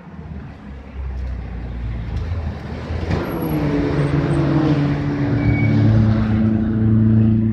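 VW Golf track car coming down the pit lane, its engine getting louder as it approaches. Its engine note drops about halfway through as it slows, then holds a steady low note.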